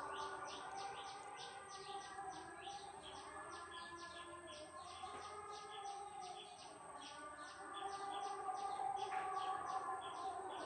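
A small bird chirping rapidly and without pause: a continuous run of short, high chirps, each sliding downward, about four or five a second, over a low background hum.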